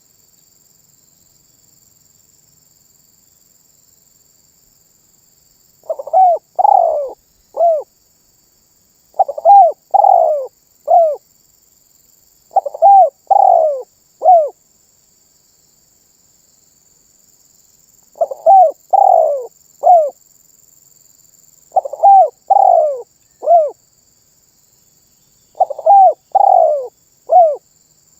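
Spotted dove (terkukur) cooing: six phrases of three or four deep falling coo notes, repeated every few seconds after a quiet first six seconds.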